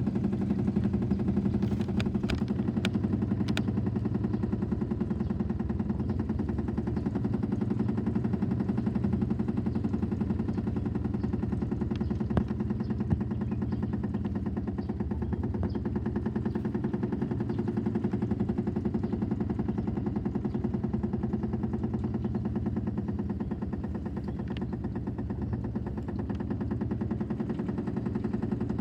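Washing machine on its spin cycle: a steady low motor-and-drum hum with a fast, even pulsing. A few sharp clicks come about two to three seconds in and again around twelve seconds.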